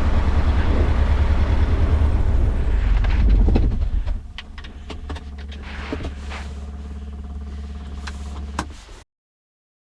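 Jodel DR1050 light aircraft's piston engine on a ground run, running at higher power and then throttled back about four seconds in to a quieter, steady idle. The sound cuts off abruptly near the end. The run is a check of an engine found to have a soft compression after standing in a damp hangar.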